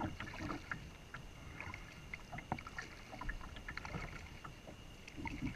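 Kayak on the water: scattered light knocks and clicks from the hull and gear, with faint water sounds.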